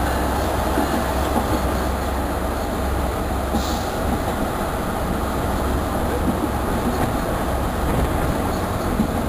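Passenger train in motion, heard from an open window beside the carriages: a steady rolling rumble of steel wheels on the rails, with a brief high-pitched sound about three and a half seconds in.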